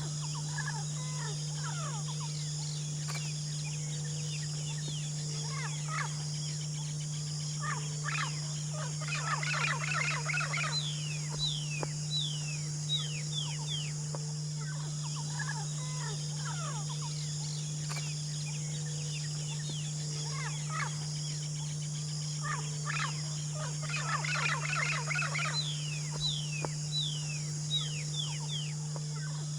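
A songbird singing in the wild. Two similar song bouts come about fourteen seconds apart, each a bubbly chatter followed by a run of short falling whistles, with scattered single calls between them. Underneath runs a steady high hiss and a low hum.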